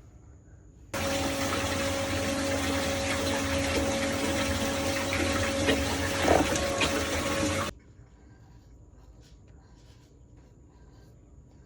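Water rushing and swirling in a whirlpool down a sink drain, with a steady pump hum under it. It starts abruptly about a second in and cuts off suddenly about two-thirds of the way through.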